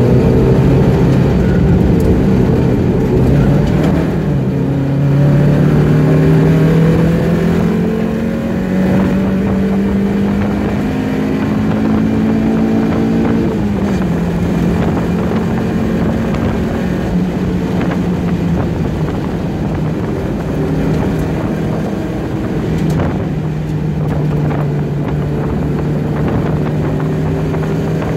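Mazda Miata's four-cylinder engine heard from inside the cabin under hard acceleration, its note climbing through the revs, then dropping sharply at an upshift about halfway through. The engine then runs on at lower revs and eases off as the car slows for a corner.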